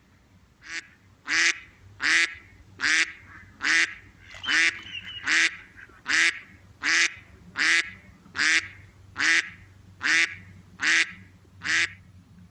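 A duck quacking over and over, about fifteen short quacks at an even pace of a little more than one a second.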